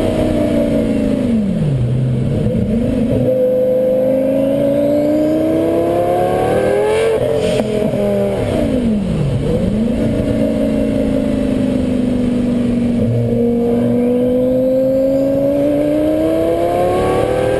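Heffner twin-turbo Lamborghini Gallardo V10 accelerating hard. The engine note drops and climbs again twice, with a sharp dip about nine seconds in, then rises in one long steady pull.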